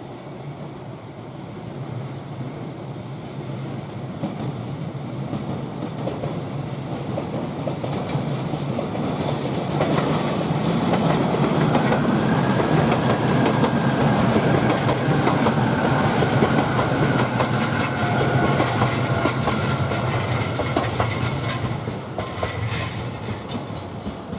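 E655 series 'Nagomi' electric train passing close by, its wheels clattering over the rail joints. It grows louder over the first ten seconds, stays loud with a steady high whine through the middle of the pass, and eases off near the end.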